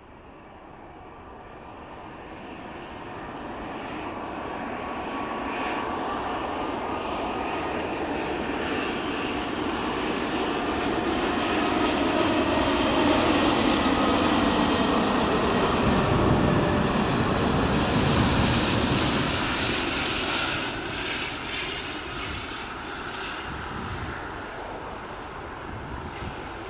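Jet airliner passing close by, its engine noise building steadily to a loud peak and then easing off, with the pitch of its whine sliding down as it goes past.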